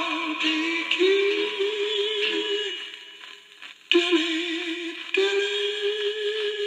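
A 1950s budget-label record played on a Big Bird phonograph: a singer holding long notes with vibrato over a small orchestra, thin and tinny with almost no bass. The music drops away for about a second near the middle and then comes back abruptly.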